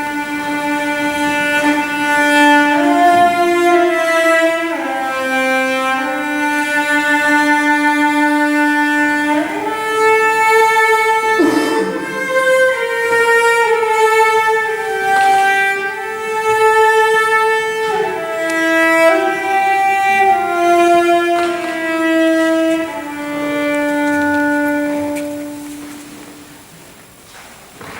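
Slow music for bowed string instruments, two parts moving in long held notes, fading away near the end.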